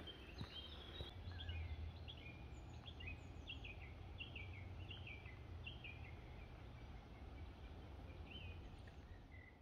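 Faint woodland birdsong: short chirps that fall in pitch, repeated about once or twice a second, over a low steady rumble.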